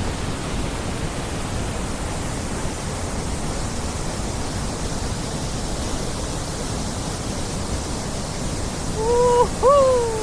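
Steady rushing noise on an open reservoir during a kayak outing. Near the end come two short pitched calls, the second rising and then gliding down.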